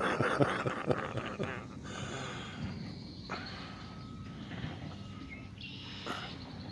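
Steady outdoor background noise on an empty beach, with a few faint short high tones in the middle and two brief sharp sounds, one about three seconds in and one near the end.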